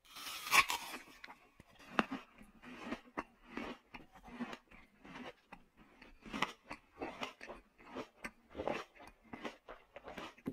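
A person biting and chewing a piece of fried sponge passed off as fried tofu: irregular soft crunches and clicks, the loudest about half a second in.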